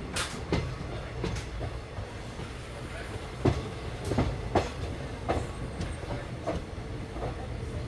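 Passenger train running, heard from inside a carriage: a steady low rumble with irregular sharp clicks and knocks from the wheels on the track, over a faint steady hum.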